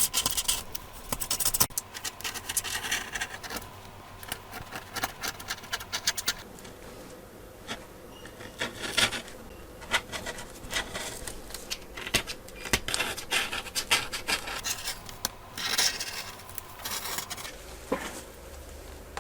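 Scraping and rubbing on an iPad Pro's frame as the old screen adhesive and debris are cleaned off. The strokes come in short, irregular runs.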